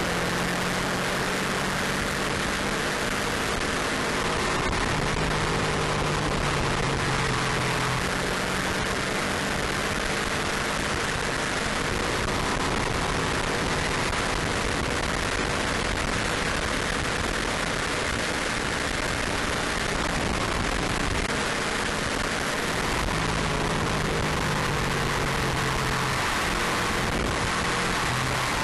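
Subaru Impreza WRX Type RA's turbocharged flat-four at speed on track, its note rising and falling in steps as it is worked through the gears, under a heavy steady rush of wind and road noise.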